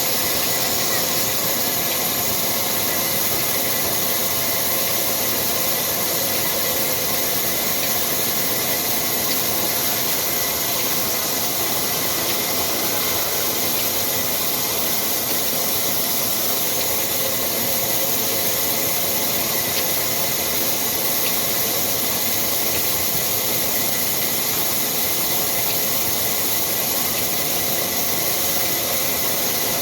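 Old black Ruston diesel engine running steadily with its wood-cutting saw machinery, a constant loud hiss over the engine with a thin steady whine.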